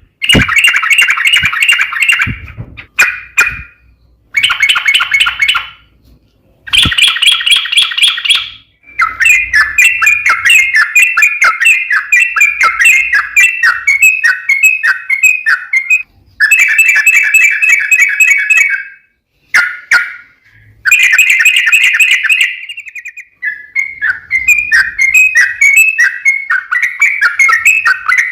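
Yellow-vented bulbul (trucukan) singing loudly: bursts of fast, chattering notes lasting a few seconds each, broken by short pauses, with runs of bubbly warbled phrases in between. It is a long-trilling 'ropel panjang' song used as a lure call.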